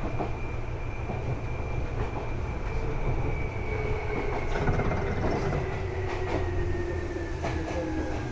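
Seibu 2000 series electric train running. A whine from the traction motors and gears slides slowly down in pitch over a steady rumble as the train slows, with occasional clicks from the wheels over the rails.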